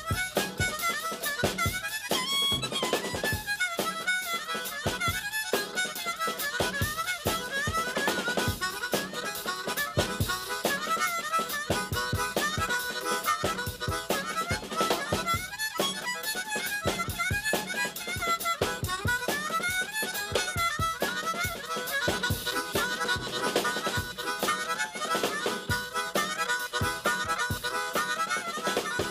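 Harmonica playing a fast train tune: a quick, even chugging rhythm under melody notes that bend up and down.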